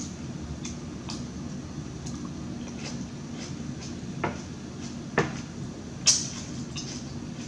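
Eating sounds close to the microphone: a few short, sharp clicks and smacks from mouth or utensils, the loudest about six seconds in, over a steady low hum.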